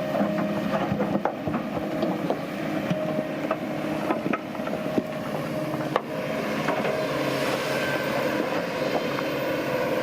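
Heavy earthmoving machinery's diesel engine running steadily under work, with irregular sharp clanks and knocks.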